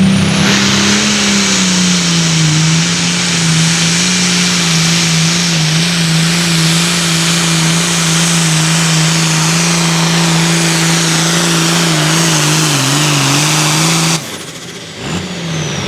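Super Farm class diesel pulling tractor running at full throttle under load down the track, a loud, steady engine note with a broad hiss above it. The pitch sags slightly near the end, and about fourteen seconds in the engine cuts off sharply as the run ends.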